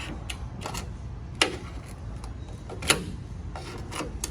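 Sharp plastic clicks and snaps as a pickup truck's plastic bed rail cap is pried up with a hook tool, its retaining tabs popping free; two loud snaps about a second and a half apart near the middle, with fainter clicks around them, over a steady low rumble.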